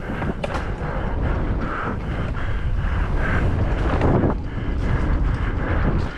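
Heavy wind buffeting the microphone during a fast mountain bike descent, a steady low roar with frequent short knocks and rattles from the bike running over rough ground.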